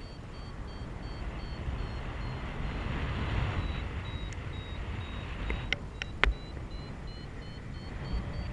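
Paragliding variometer beeping in a quick run of short high tones, signalling lift; the pitch rises toward the end as the climb strengthens. Wind rushes over the microphone throughout, with a few sharp clicks about two-thirds of the way in.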